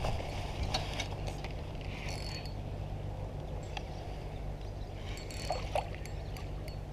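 Creek water sloshing and lapping around a hooked carp as it is played in close to the bank, over a steady low rumble with a few light clicks.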